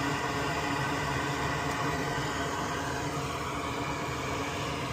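Steady hum of a small fan or motor: an even whirring noise with several constant tones.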